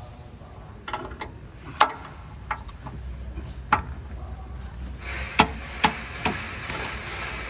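Hand tools and metal parts being handled during car repair work: a string of sharp clicks and knocks. A steady hiss joins from about five seconds in.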